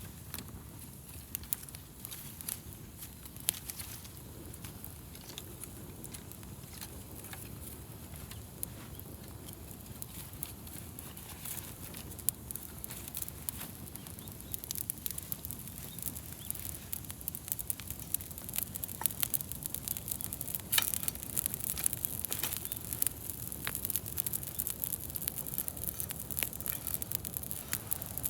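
Wood campfire crackling, with sharp pops and snaps that come more often in the second half, over a low steady hiss and rumble of burning.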